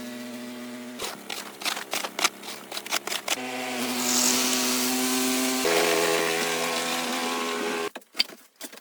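Small motor of a snow blower running steadily, stepping up in pitch twice, with knocks and clicks early on and a rising hiss as snow is thrown. It cuts off sharply near the end, leaving scattered light clicks.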